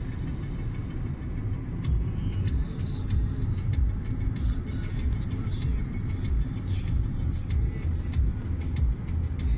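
Lada Kalina car on the move: a steady low rumble of engine and road noise, with irregular high ticking and hiss joining in from about two seconds in.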